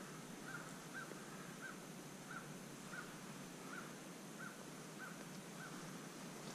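A distant bird calling a steady series of about ten short, evenly spaced notes, roughly one and a half a second, ending near the end over a faint woodland hiss.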